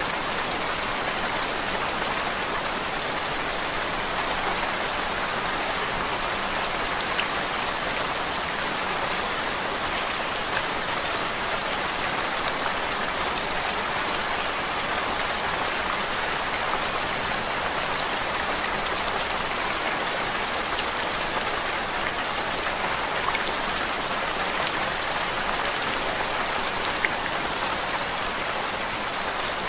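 Steady rain-like white noise: an even hiss with many tiny scattered ticks like drops landing.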